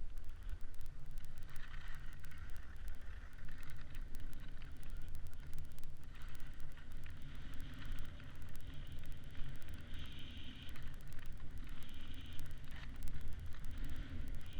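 Wind buffeting the microphone as a steady low rumble, with a hiss that comes and goes every second or two as the kite rider slides over the snow.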